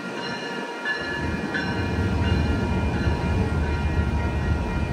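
Passenger train running past, its low rumble swelling about a second in and holding, with several steady high tones over it.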